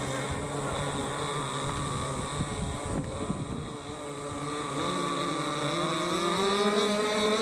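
Radio-controlled racing boats' two-stroke gasoline engines running on the water. They sag and drop in level about halfway through, then climb steadily in pitch as the throttle opens.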